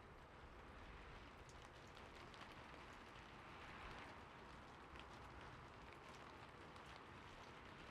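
Gentle rain, faint and steady, with an occasional light patter of drops.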